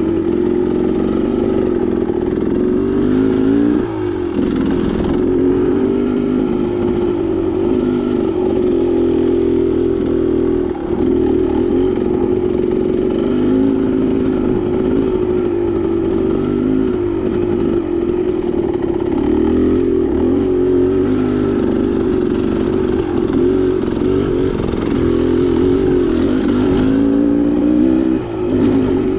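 Dirt bike engine running continuously under riding load, its pitch rising and falling with the throttle, briefly dropping back a few times as the rider eases off.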